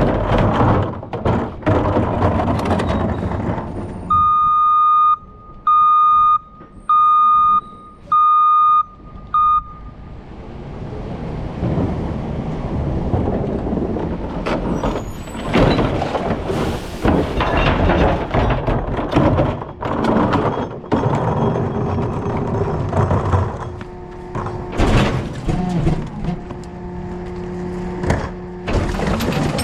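Rear-loader garbage truck's reverse alarm beeping about once a second, five times, the last beep cut short, over the truck's running engine. It then runs on with repeated clanks and thuds.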